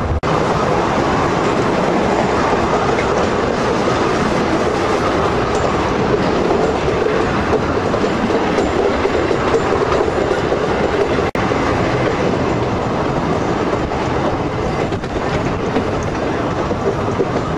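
Schynige Platte Railway's electric rack-railway train running uphill, heard from on board: a steady, loud running noise of wheels on track and the train's drive.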